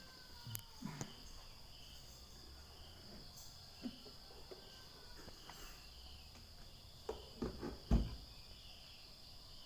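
Insects, likely crickets, chirring steadily in a high continuous drone, with a few short thumps near the end.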